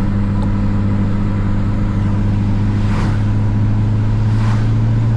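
Mitsubishi Lancer Evolution VIII's turbocharged 4G63 inline-four running at a steady speed, a constant low drone that neither rises nor falls. Two brief whooshes of noise pass over it, about three and four and a half seconds in.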